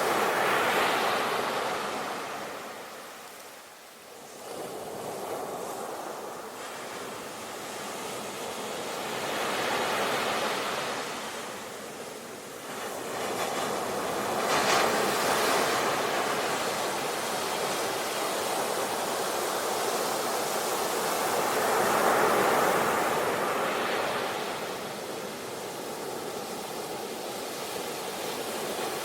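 Sea waves breaking and washing on a shore, the surf swelling and fading every several seconds.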